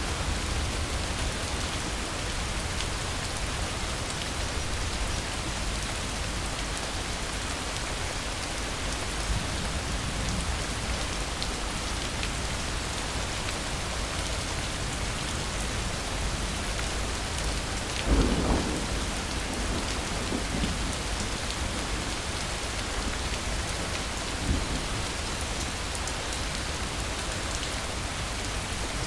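Steady rain falling throughout, with a sudden thunderclap about two-thirds of the way through that rumbles on for a couple of seconds, then a smaller crack a few seconds later.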